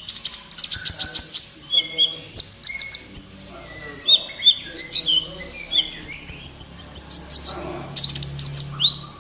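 Kolibri ninja sunbird singing a fast, busy song: rapid high chirps, short trills and sharp rising whistle notes in quick succession, a faint low hum underneath near the end.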